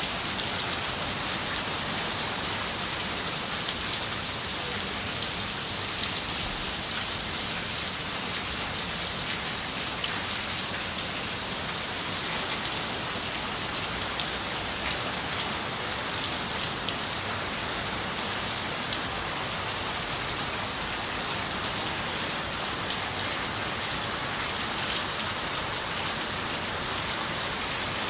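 Steady rain pattering on a window pane, with scattered individual drop ticks over a constant hiss.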